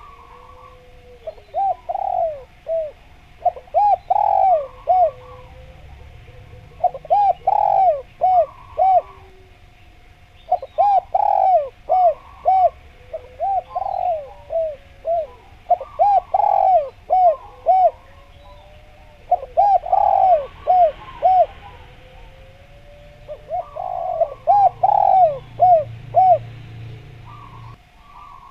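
Spotted dove cooing its song over and over: phrases of several quick, rhythmic coos, one phrase every two to three seconds.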